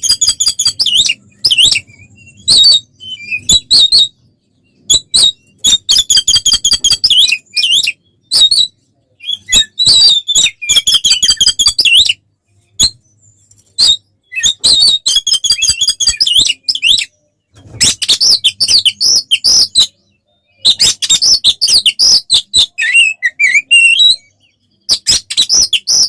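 Oriental magpie-robin (kacer) singing loudly in fast phrases of rapid, repeated chattering notes. Each phrase lasts one to three seconds, with short breaks between them. This is full, aggressive 'fighting' song.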